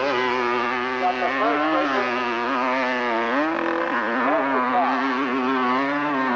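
Hillclimb motorcycle engine revving hard at high rpm, its pitch rising and falling as the throttle and wheelspin vary, with a brief drop in revs about halfway through.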